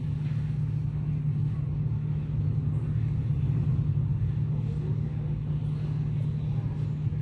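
Steady low drone of a vehicle in motion, an even hum that does not change.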